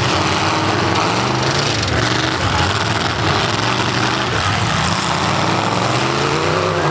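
Several demolition derby cars' V8 engines running and revving together, with one engine rising in pitch near the end.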